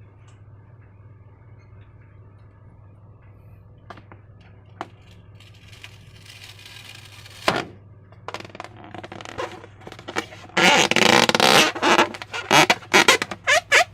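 Slime being handled and squished: quiet clicks and soft handling at first, then about ten seconds in a loud run of wet squelching and crackling.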